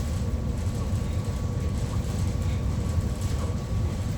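Steady low drone of a ferry's engines and onboard machinery, with a faint steady hum tone above it.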